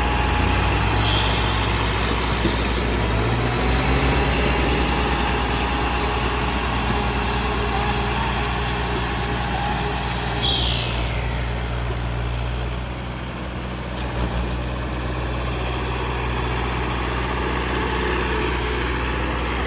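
Diesel tractor engines running steadily under load as two tractors pull against each other in a tug-of-war, a continuous low drone.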